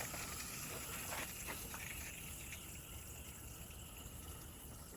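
Hand pump garden sprayer hissing steadily as it sprays a coil-cleaner and water mix onto a heat pump's outdoor condenser coil, slowly getting quieter.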